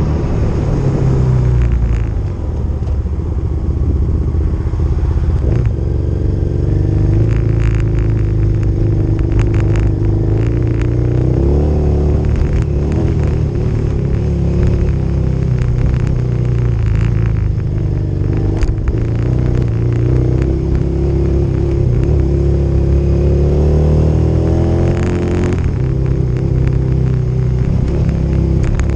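Motorcycle engine running while riding a dirt trail, its pitch rising and falling with the throttle, with scattered short knocks and rattles.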